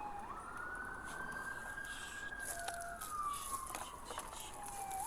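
Police car siren wailing: the pitch jumps up just after the start, rises gently, then slides slowly down for about three seconds before jumping up again at the end.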